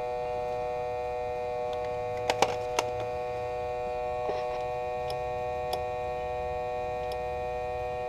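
Foxwell ST201 smoke leak detector running: a steady electric hum of several fixed pitches from its built-in air pump pushing smoke into the engine intake during a vacuum-leak test. A few sharp clicks come about two and a half seconds in.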